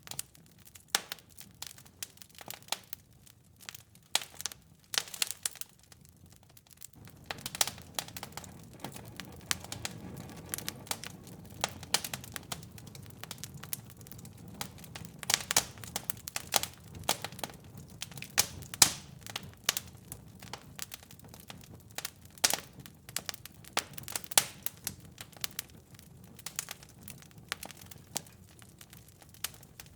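Fire in a fireplace crackling, with many irregular sharp snaps and pops over a low steady rush of flame that grows fuller about seven seconds in.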